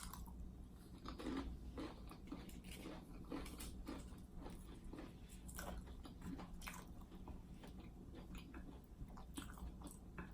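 A person biting and chewing seafood buffalo dip close to the microphone: many short, quiet crunches and mouth clicks at an irregular pace.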